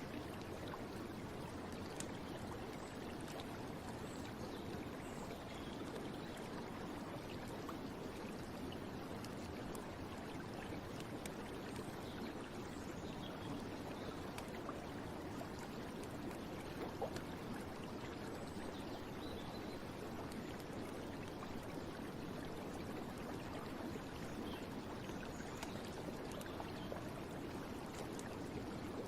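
Running water of a stream, a steady, even rushing with no pauses.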